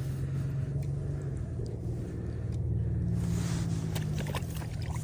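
A motor running steadily with a low hum that shifts a little in pitch a few times, with a few faint clicks near the end.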